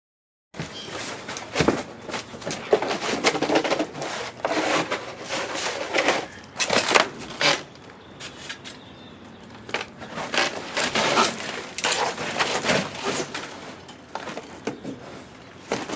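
Irregular knocks, scrapes and rustling as a clothes dryer is dragged and manhandled, its cabinet bumping about.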